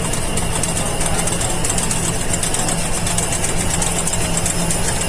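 Ruidcar suspension-noise test machine shaking a car's front wheels on its vibrating plates: a steady, fast mechanical rattle over a constant hum. The knocking it provokes is traced to play in a transmission mount.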